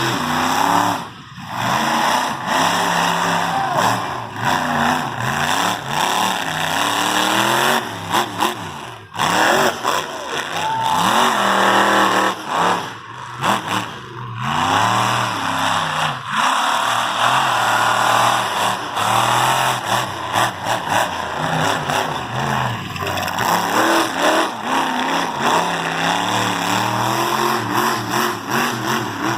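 Monster truck's engine running hard, its pitch rising and falling over and over as it revs up and eases off, with a few brief dips in level.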